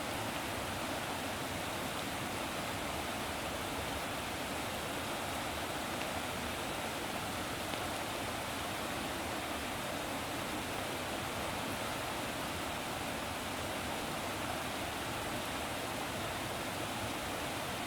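Steady rushing water, an even unbroken noise with no separate splashes or swells.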